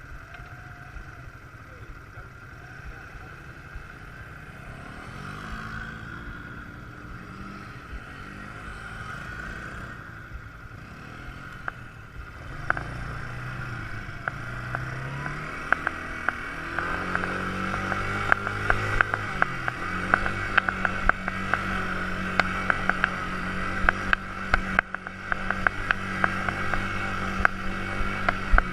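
Quad bike engine running, its pitch rising and falling and then holding higher as it grows louder. Many sharp clicks and knocks come through the second half.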